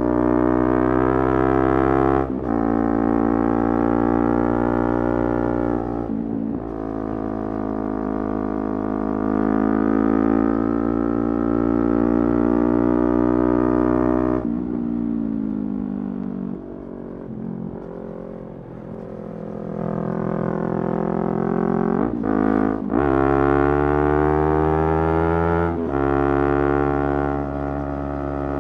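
Motorcycle engine accelerating hard through the gears. The pitch climbs in each gear and drops at quick upshifts about 2 and 6 seconds in. Around the middle the rider rolls off, the note falls and quietens, then it pulls through two more shifts near the end.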